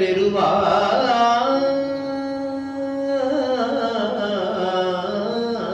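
A man singing a Tamil devotional hymn solo in Carnatic style, drawing out one syllable in a long melismatic passage. He ornaments the note with glides, holds it steady for about a second and a half near the middle, then moves on with more turns.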